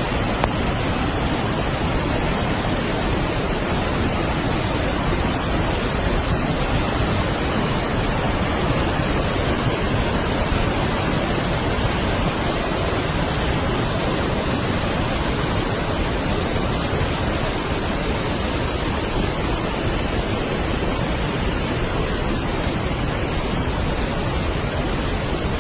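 Waterfall, falling water making a loud, steady rushing noise.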